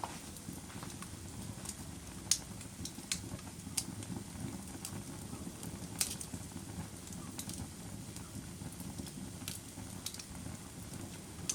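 Fire burning in a fireplace: a steady low rush of flames with irregular sharp crackles and pops.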